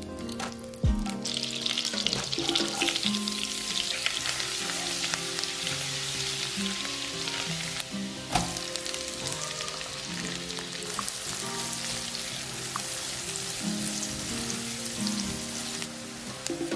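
Butter and oil sizzling in a nonstick wok, the hiss building about a second in as the butter melts. Chopped onion is tipped in near the middle and fries. Background music plays underneath.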